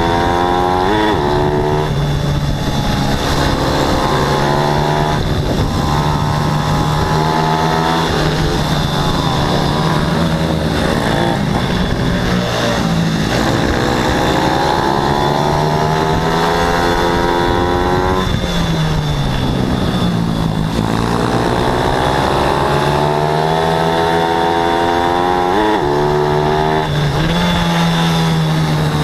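Racing pit bikes' single-cylinder four-stroke engines at full throttle, overlapping. Their revs rise and fall again and again as they accelerate and back off through the corners.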